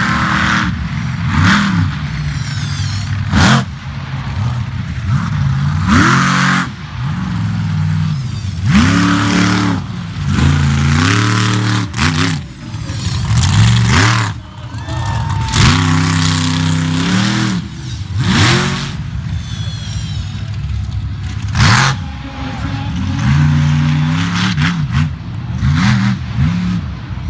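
Monster truck engine revving hard in repeated bursts, its pitch climbing and dropping again every second or two, with a few sharp bangs among the revs.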